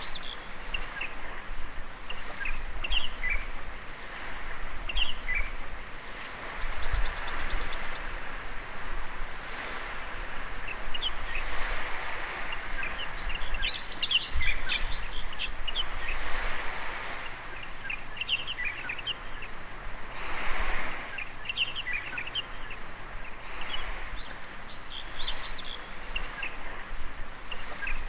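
Small waves washing up on a beach in soft swells that rise and fall, with birds chirping on and off, including a quick trill about seven seconds in.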